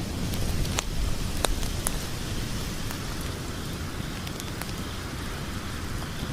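Logs burning in a fireplace: a steady low rumble of flames with scattered sharp crackles and pops, more frequent in the first two seconds.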